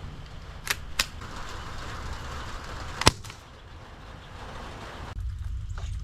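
A single sharp crack from an MP9 air gun firing a pellet about three seconds in, preceded by two smaller clicks about a second in, over a steady low rumble.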